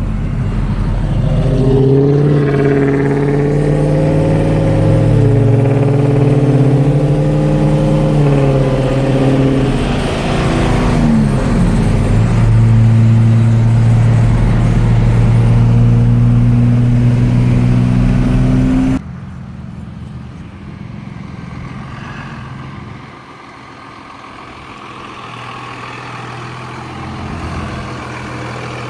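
A car driving in traffic, heard from inside: the engine's note steps and glides up and down with the throttle, over road noise. About two-thirds of the way through it cuts off abruptly to a quieter, steady low hum of traffic.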